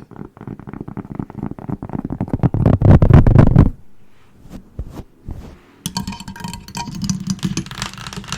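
Close-up ASMR rubbing and rapid tapping right on the microphone, heavy and booming, building to its loudest about three seconds in and then stopping. After a short pause with a few taps, a crisp crackling scratch starts near the end.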